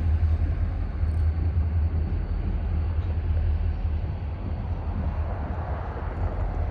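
GP40-2 diesel locomotives running with a steady low rumble.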